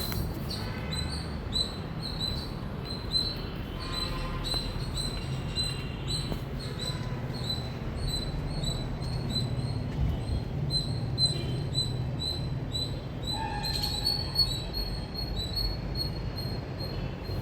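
Indian palm squirrel chirping: a long run of short, high, evenly repeated chirps, about two a second, over a low background rumble.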